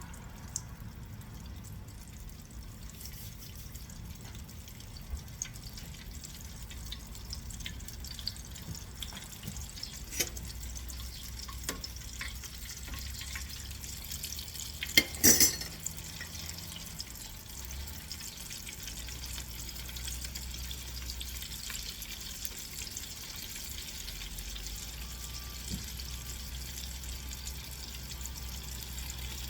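Chicken pieces frying in hot oil: a steady sizzle with scattered pops and crackles, and a brief sharp clatter about halfway through.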